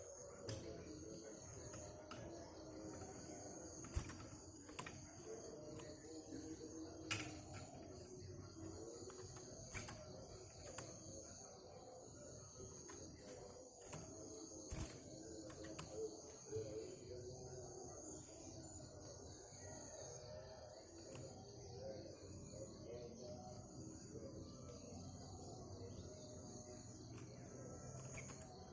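Crickets chirring in a steady, high-pitched, finely pulsed trill, over a faint low murmur with a few scattered clicks.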